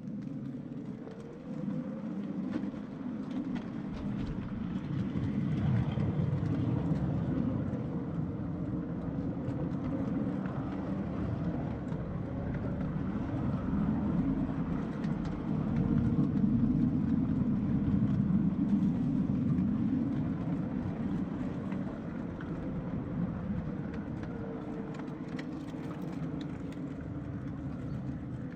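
A 5-inch gauge ride-on miniature train, hauled by a battery-electric locomotive, running along the track: a steady rumble of wheels on rail with a faint motor whine. It swells louder twice and then eases.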